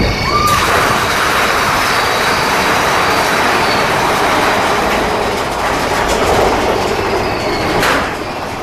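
Seven Dwarfs Mine Train roller coaster cars running along the track: a steady, loud rattle of wheels on track, with a sharp click near the end.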